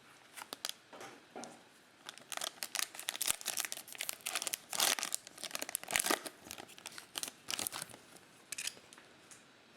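Football trading card pack wrapper being torn open and crinkled by hand: a run of crackly rustles, busiest from about two to eight seconds in.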